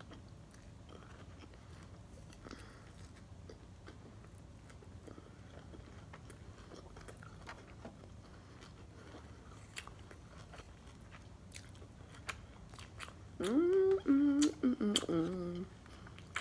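Close-up chewing of a sushi roll: faint wet mouth clicks and smacks. About thirteen seconds in, a loud closed-mouth "mmm" of enjoyment lasting about two seconds, falling in pitch.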